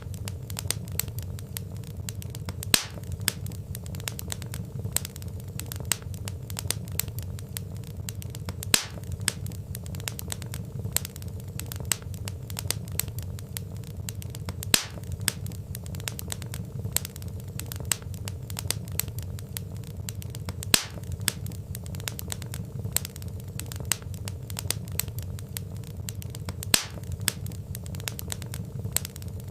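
Wood fire crackling: a dense run of small snaps over a steady low rumble, with a louder pop about every six seconds.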